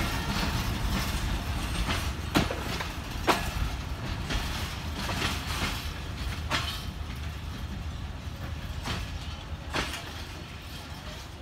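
Intercity passenger train coaches rolling away over the rail joints: a steady low rumble with a sharp wheel clack every second or so. The sound fades slowly as the train pulls away.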